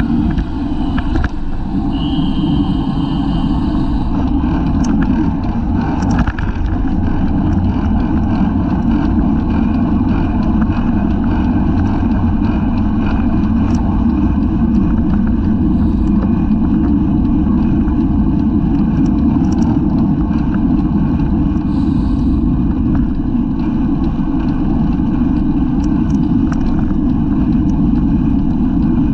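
Steady wind rush and road noise on a bicycle-mounted camera's microphone while riding at race speed. A brief high-pitched squeal sounds about two seconds in.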